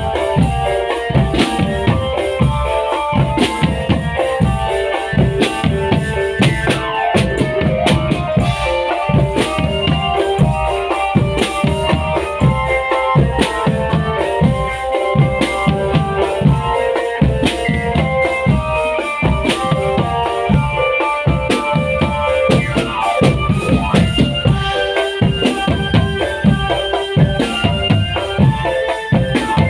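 Marching drum band playing steadily: bass drums and snare drums beating a fast, even rhythm under a sustained melody line.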